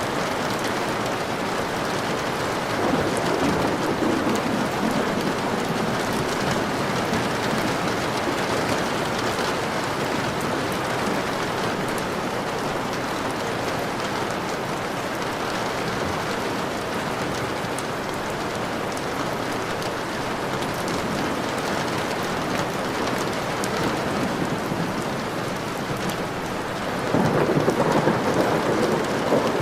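Steady rain falling, with thunder rumbling twice: a soft roll a few seconds in and a louder one near the end.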